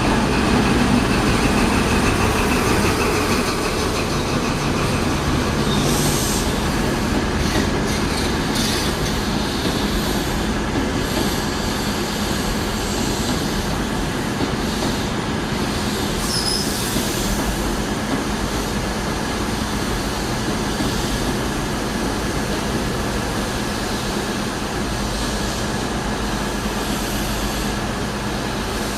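A train running at a railway station: steady rumbling running noise with a low hum, a few short clicks, and a brief high-pitched wheel squeal about sixteen seconds in.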